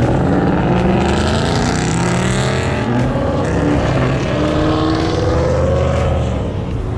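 Car engine revving, its pitch climbing twice as it picks up speed.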